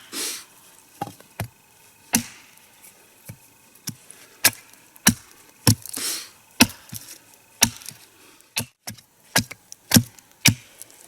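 A wooden wedge being driven into the crack of a log to split it: a series of sharp knocks of wood on wood, about one or two a second with short pauses.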